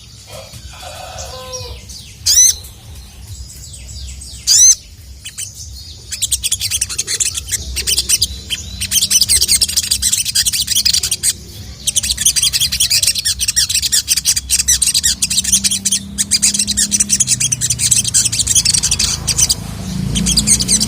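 Little spiderhunter (sogon) calling: three loud, sharp sweeping "cuit" calls about two seconds apart, then, from about six seconds in, a long, rapid, high chattering song.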